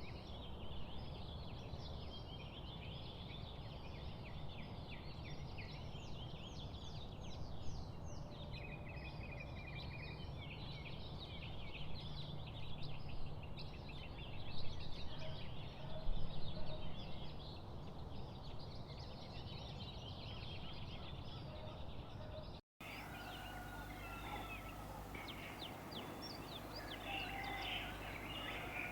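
Dense chorus of many small songbirds chirping and trilling rapidly over an even, steady background noise. After a brief dropout about three-quarters of the way in, a different set of birdsong follows with longer drawn-out whistles.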